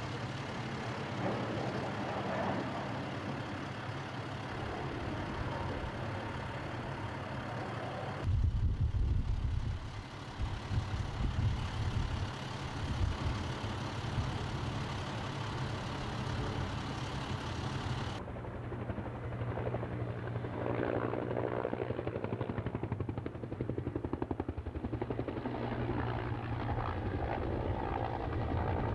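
Aircraft engine noise from firefighting aircraft working over a wildfire, heard across several cut shots. In the middle stretch the sound changes abruptly to a heavy, gusting low rumble.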